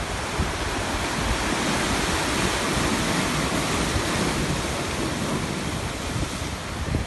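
Sea waves washing in as a steady rush of surf, a little fuller in the middle, with some low wind buffeting on the microphone.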